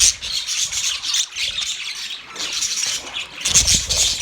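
A flock of small pet parrots chattering and squawking without a break, many high calls overlapping, with a dull low bump about three and a half seconds in.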